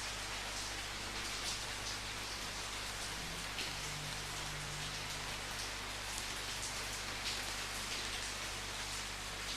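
Steady rain falling and pattering on a surface, an even hiss with frequent separate drops standing out.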